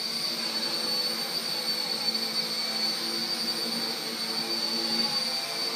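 RC Era C032 UH-1 Huey RC helicopter's electric motors and rotor blades running steadily: a constant high whine over a lower hum.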